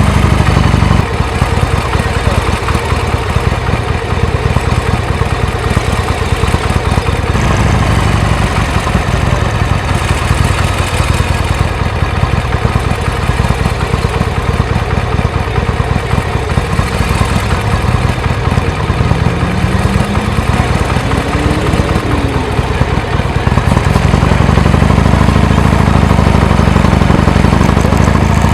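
Motorcycle engine running steadily while riding. About two-thirds of the way in it speeds up and then eases off, and near the end it speeds up again.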